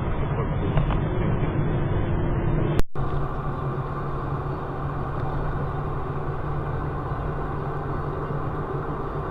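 Steady drone of a vehicle's engine and road noise from a moving vehicle, with an abrupt cut about three seconds in to a second stretch of similar steady running noise.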